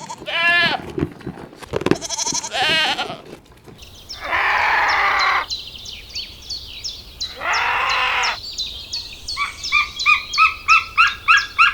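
Farm animal bleating twice with a wavering voice, followed by two long raspy calls under a run of high, evenly repeated chirps, and near the end a quick series of short, sharp paired calls about four a second.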